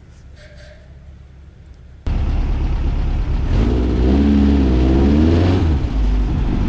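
Volkswagen 1600cc air-cooled flat-four engine in a dune buggy. It is faint at first, then comes in loud and sudden about two seconds in, running with the revs rising and falling briefly in the middle.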